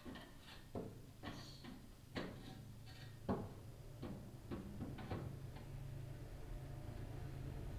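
Chimney inspection camera head clicking and knocking against the masonry at the bottom of a fireplace flue, about a dozen irregular knocks with one sharper knock a little past three seconds in, over a low steady hum.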